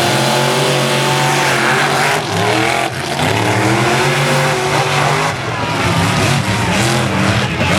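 Monster truck engines revving hard in a side-by-side race, their pitch repeatedly climbing and dropping back.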